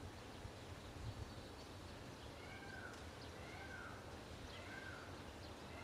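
Faint outdoor ambience: a steady low rumble of background noise with about five short chirps of small birds in the middle of it.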